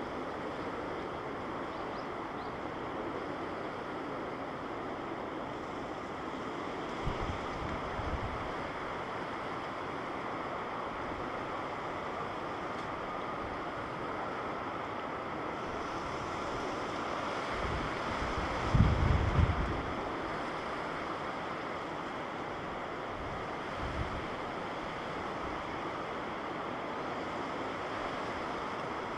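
Jet noise from an Airbus A350-900's Rolls-Royce Trent XWB engines: a steady rush that swells a little past the middle. A few low wind buffets hit the microphone, the strongest about two-thirds of the way through.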